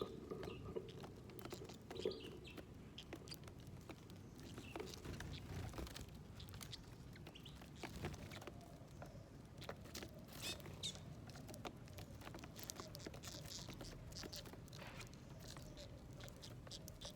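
Small birds feeding at a seed plate: scattered light taps and clicks of pecking at seeds and nuts, with a few short faint chirps.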